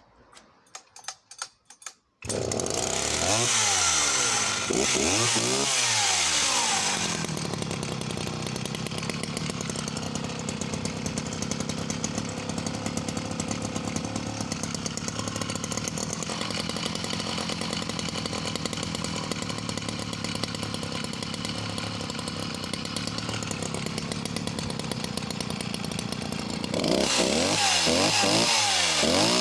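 Sachs Dolmar 112 two-stroke chainsaw being started after the choke is set. A few sharp pulls come first, and the engine catches about two seconds in. It revs up and down in blips, then settles to a steady idle for about twenty seconds, and is revved again near the end.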